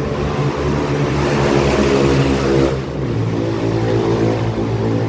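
A train running nearby: a steady hum of several tones with a rising hiss that cuts off suddenly about three seconds in, where the hum drops lower.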